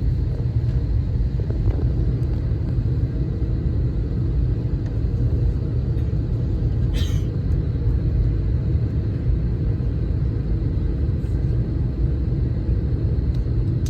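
Steady low rumble inside the cabin of an Airbus A321 airliner waiting at the gate, with a brief hiss about halfway through.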